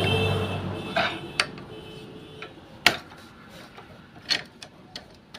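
Scattered sharp clicks and knocks of metal hand tools and parts being handled on a motorcycle clutch assembly, about half a dozen, the loudest near the middle.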